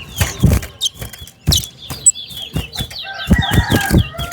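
Caged towa-towa finches chirping in short, quick phrases during a song race, with several low knocks. About three seconds in, a rooster crows.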